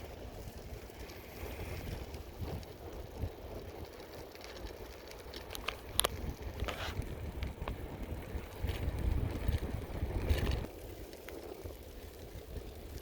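Bicycle riding along, with a steady low rumble of tyres and wind on the microphone and a few sharp clicks and rattles about halfway through.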